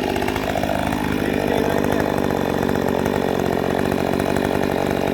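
Chainsaw running steadily with an even, unbroken sound.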